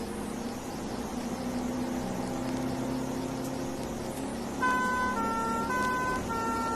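Emergency vehicle's engine running, then a British two-tone horn starts about two-thirds of the way in, alternating between a higher and a lower note about twice a second.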